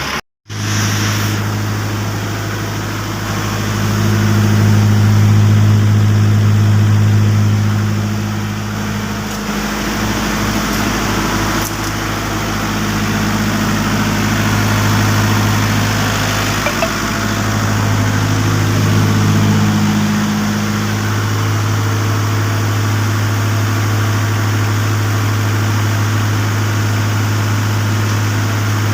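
Perkins diesel generator set engine running at a steady speed, a constant low drone that swells slightly in loudness now and then.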